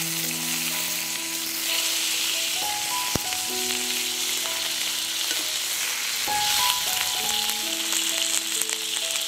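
Banana-leaf-wrapped bhetki fish parcels sizzling in hot mustard oil in a kadai, a steady frying hiss as the second side browns.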